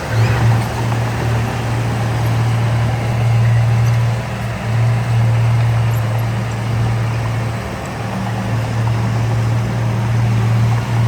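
Heavy earthmoving machinery's diesel engine running with a steady low drone that dips briefly a few times.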